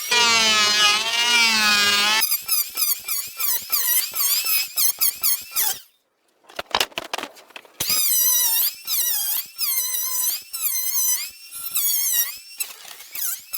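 High-pitched squeaking with a wavering pitch: one long squeal, then many short squeaks in quick succession, broken by a brief pause about six seconds in.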